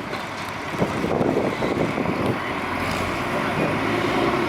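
Truck engine running at low revs at a truck pull, uneven at first, then settling into a steady drone about three and a half seconds in.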